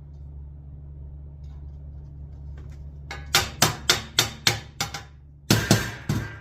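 Hammer blows on sheet metal ductwork: a quick run of sharp strikes starting about halfway through, then a short pause and more strikes near the end, knocking a stubborn duct piece into place.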